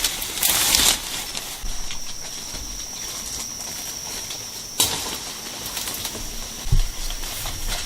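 A steady, high-pitched insect drone in the rainforest, starting about two seconds in, with a brief rustle near the start, a sharp click about five seconds in and a dull thump near the end.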